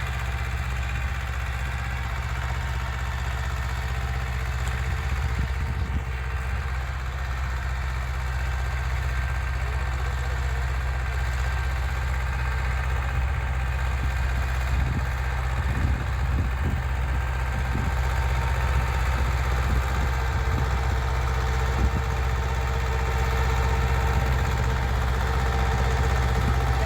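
Swaraj 724 4WD tractor's diesel engine running steadily at about idle, with a few light knocks in the middle and growing slightly louder toward the end.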